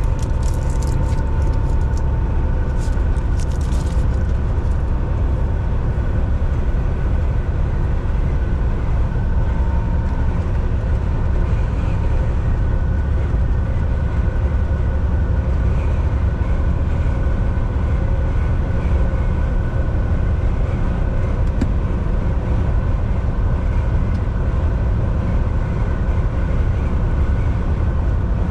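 Volvo VNL 760 semi truck cruising at highway speed, heard from the driver's seat: a steady low drone of engine and tyres on the road, with a faint steady whine above it. A few faint clicks come in the first few seconds.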